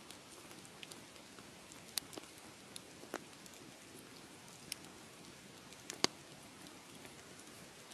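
Wood fire crackling in a fireplace: a steady low hiss with scattered sharp pops, the loudest about six seconds in.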